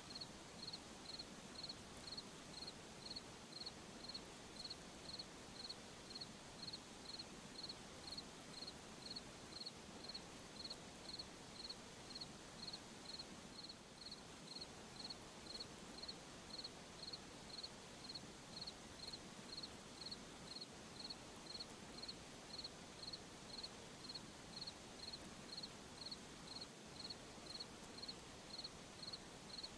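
A cricket chirping in a steady, even rhythm, about one and a half high-pitched chirps a second, over a faint hiss of night ambience.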